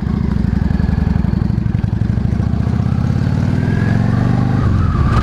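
Yamaha V-Star 650's air-cooled V-twin engine pulling under way, its pitch climbing slowly and then falling suddenly near the end.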